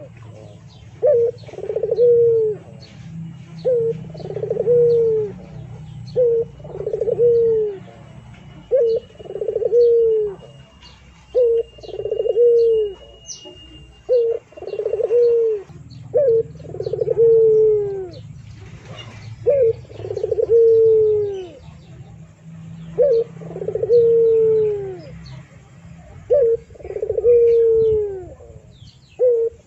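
A bird calling over and over, about every two seconds: a short note followed by a longer falling note, fairly low-pitched.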